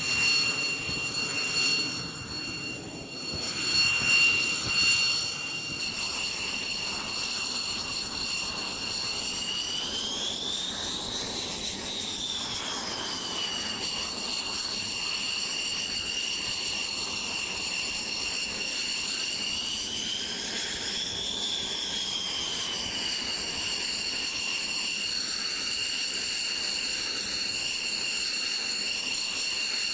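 Jet engine running with a steady high-pitched whine that twice rises in pitch and settles back, as the engine speeds up and eases off. A few louder swells of noise come in the first few seconds.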